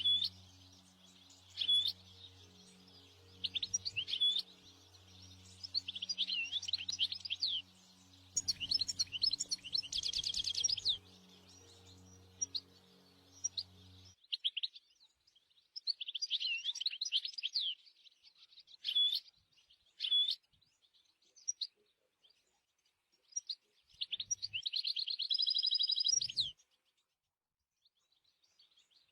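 European goldfinch singing: bursts of quick, tinkling twittering phrases with short pauses between them.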